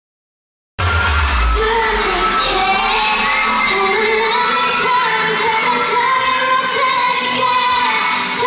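Silence, then under a second in a K-pop song cuts in abruptly with a deep bass hit and female singing over a pop backing track.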